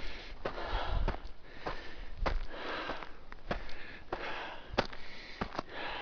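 Hiker breathing hard while climbing a very steep slope, with sharp crunches and snaps of footsteps on dry ground and brush, a couple each second.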